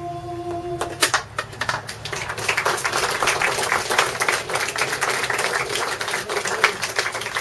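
A held final musical note stops about a second in and an audience breaks into applause, a dense patter of hand claps that continues steadily.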